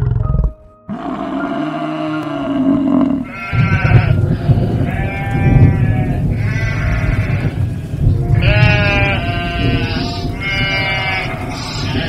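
A herd of goats bleating, about six loud calls one after another, each lasting about a second. A brief low grunt is heard right at the start.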